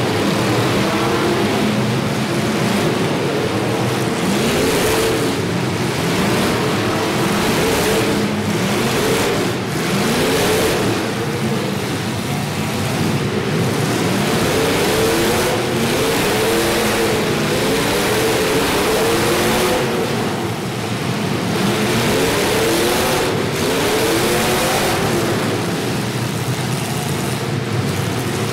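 Several demolition derby cars' engines revving up and down again and again, their pitches overlapping, over a steady rushing noise.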